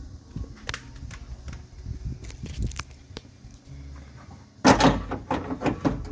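Scattered clicks and knocks of a drilled-out door latch and its parts being handled, then a loud burst of clattering about two-thirds of the way through.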